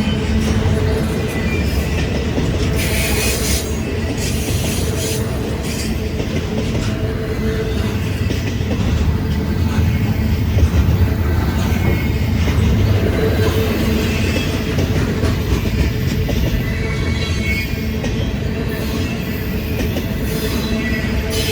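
Freight train cars rolling past on the rails: a steady heavy rumble with wheel clatter over the rail joints, and faint high wheel squeals now and then.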